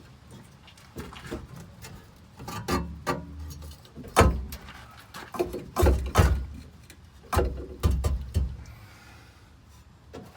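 Irregular metal clunks, knocks and scrapes as the old exhaust pipe and mufflers are lowered and worked loose from under the truck, with several heavy thuds between about four and nine seconds in.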